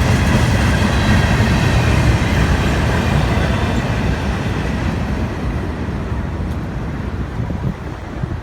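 Freight train cars rolling past on the rails, a steady heavy rumble of wheels on track that slowly fades as the end of the train draws away.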